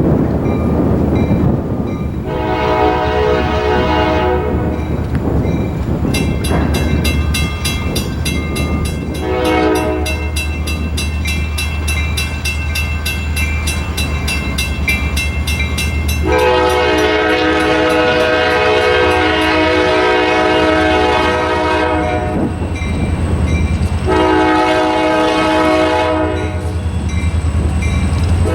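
Diesel freight locomotive passing with its engine rumbling low and steadily, sounding its multi-note air horn in a series of long blasts. A fast, regular ringing bell runs for several seconds in the middle.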